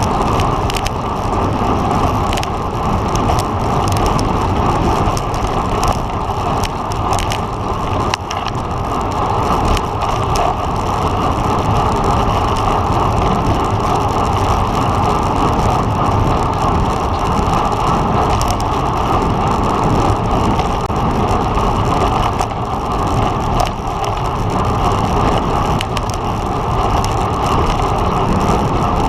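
Steady wind rush over the microphone of a camera riding along on a road bike at race speed, with scattered clicks and rattles from the bike and the road.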